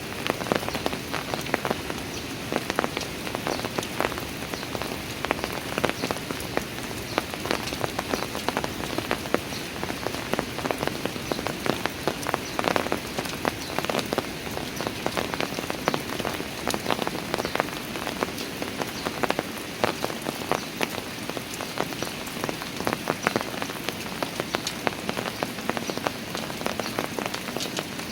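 Steady rain falling on park stairs and the ground around them, a dense patter of individual drops splashing throughout.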